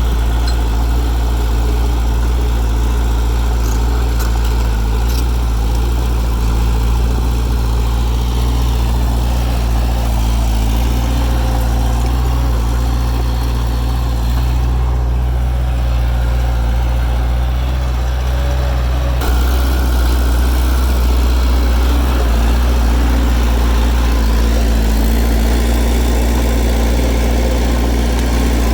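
Heavy construction machinery's diesel engine running steadily, turning abruptly louder about two-thirds of the way through.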